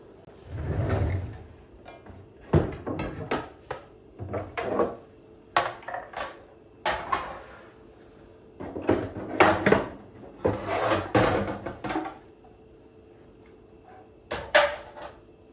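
A series of household handling noises: knocks, clicks and short rustles, like items being picked up and set down and cupboard or drawer doors opening and closing, about a dozen in irregular succession.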